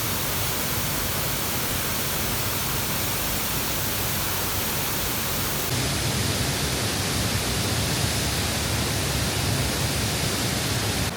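Waterfall close by: a steady, loud rush of falling water, its tone shifting slightly about six seconds in.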